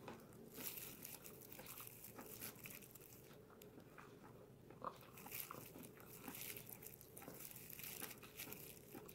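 Faint chewing of crispy fried chicken karaage, with scattered crunches, two of them a little louder near the start and about halfway through.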